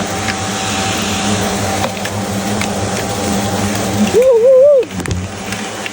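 Giant hornets buzzing steadily around their ground nest as they are being caught. About four seconds in a brief wavering higher-pitched tone rises over the buzzing, the loudest sound here.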